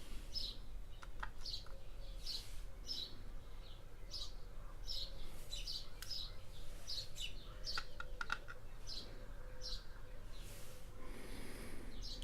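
A bird chirping over and over, a short high call about once or twice a second. A few light clicks sound about a second in and again around two-thirds of the way through.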